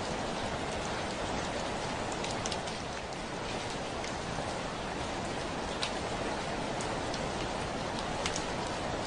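Heavy rain falling steadily on a window, an even hiss with a few single drops ticking sharply against the glass now and then.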